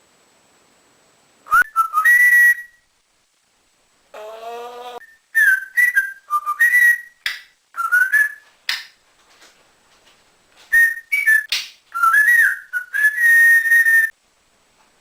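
African grey parrot whistling: a series of short, loud, sharp whistles, many sliding up or down in pitch, in bursts over most of the clip. About four seconds in there is one lower, rougher call.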